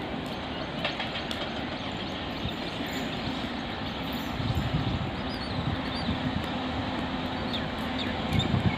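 WAP-7 electric locomotive and its passenger train approaching slowly, a steady low rumble that grows louder near the end.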